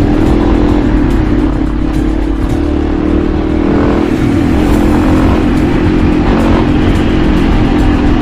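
Motorcycle engine running steadily at cruising speed, with wind rumble on the bike-mounted camera's microphone.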